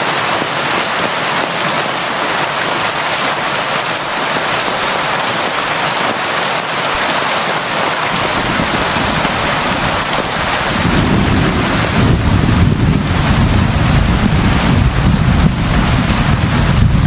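Steady, constant rain. About two-thirds of the way through, a low rumble of thunder builds and keeps rolling under the rain to the end.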